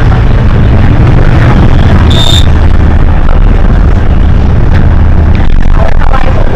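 Hino HS8JRVL city bus's diesel engine and drivetrain running while under way: a loud, steady low drone. About two seconds in there is a short high-pitched tone.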